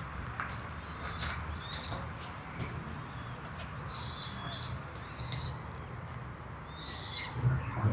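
Small birds chirping in short, repeated calls about once a second, over a steady low rumble.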